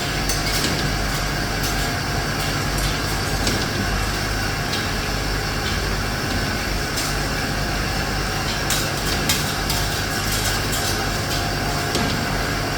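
Factory machinery running steadily with a low hum and a few light clicks scattered through it.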